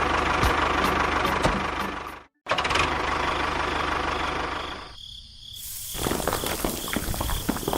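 Engine running with a rattle, broken by abrupt cuts: it stops dead about two seconds in, starts again at once, dips near five seconds, and comes back with a steady high whine.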